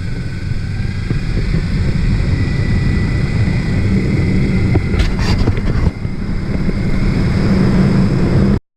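Motorcycle running at speed, a steady, loud engine-and-road rumble with some clicks about five seconds in and a brief dip soon after. The sound cuts off abruptly just before the end.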